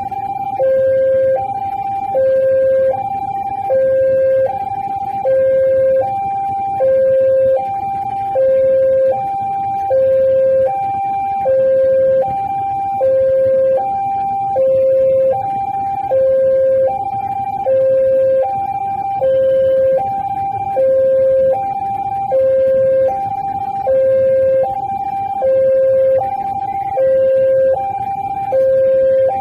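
Railway level-crossing warning alarm sounding a steady two-tone signal, a lower and a higher tone alternating about once a second each and repeating without a break: the crossing is warning that a train is approaching and the barrier gates are closed.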